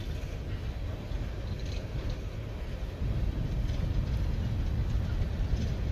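Low rumble of a train, growing louder about three seconds in.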